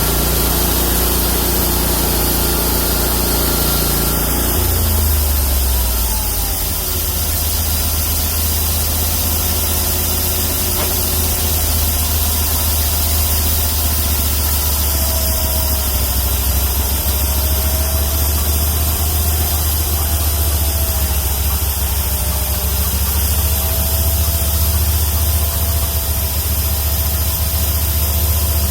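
The 31 hp engine of a homemade bandsaw mill running at speed, then dropping in speed about five seconds in and settling into a steady idle.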